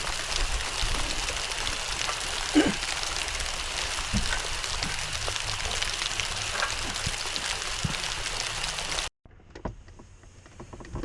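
Steady heavy rain, a dense hiss with scattered drop ticks. It cuts off abruptly about nine seconds in, leaving a much quieter background with a few faint clicks.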